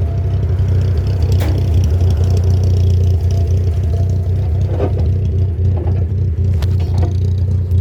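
A vehicle engine running steadily with a low drone, with a few brief knocks about one and a half, five and seven seconds in.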